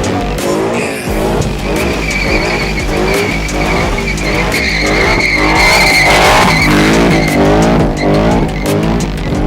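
Car spinning its tyres: a long, steady tyre squeal over an engine revving up again and again, loudest about six seconds in.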